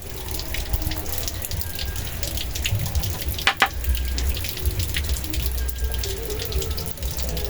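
Strong wind gusting against the microphone as a low, uneven rumble over a steady rushing noise like running water, with scattered sharp clicks throughout and a louder click about halfway through.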